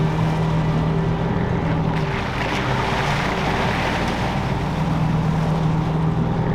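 A vehicle running steadily, with an engine drone that steps down in pitch about two seconds in and back up near the end, over a dense rush of road and wind noise.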